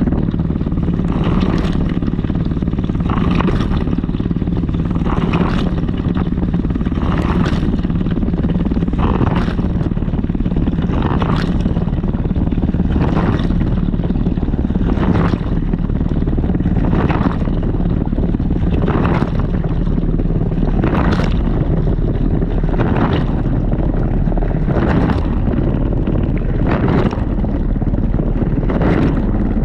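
Washing machine wash cycle heard from inside the drum: a steady low rumble with a surge of sloshing water about every two seconds as the drum turns.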